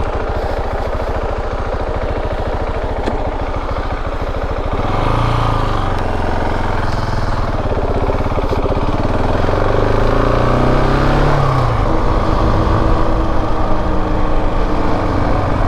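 KTM 690 Enduro R's single-cylinder engine running on the move. The revs climb about five seconds in and fall back sharply a few seconds later.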